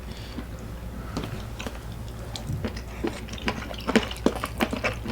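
A run of sharp clicks and taps from tableware and food containers being handled, sparse at first and busier from about three seconds in.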